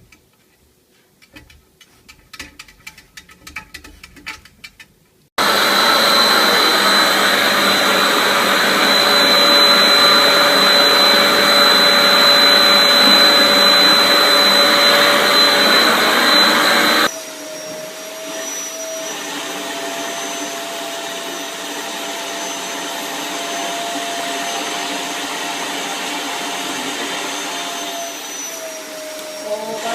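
Faint scattered ticking, then a loud steady electric appliance motor with rushing air and a steady whine that switches on suddenly about five seconds in. About twelve seconds later it gives way abruptly to a quieter steady motor hum, whose pitch sags near the end as it winds down.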